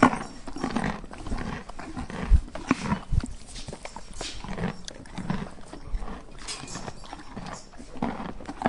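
A horse close at hand: irregular knocks and rustling noises, with heavy thumps about two and a half and three seconds in.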